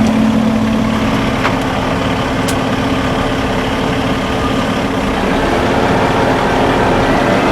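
Semi truck engine running at idle, a loud steady hum with several fixed tones. At the very end a higher tone starts to rise as the engine begins to rev up.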